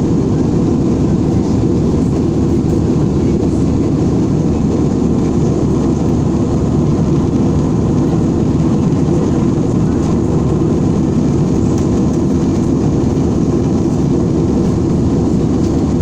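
Airliner cabin noise: steady low noise of the jet's engines and air rushing past the fuselage, heard from inside the passenger cabin.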